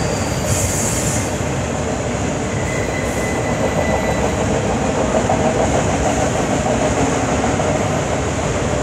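Freight train of autorack cars rolling past on a curve: a steady rumble of steel wheels on rail, with a faint high wheel squeal for a moment about three seconds in.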